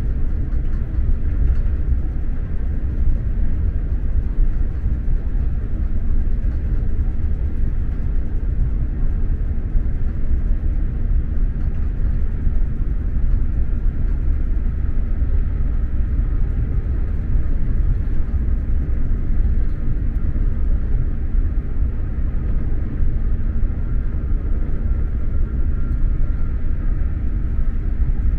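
Steady low rumble of an SJ X2000 high-speed train running, heard from inside the passenger coach, with a faint whine near the end.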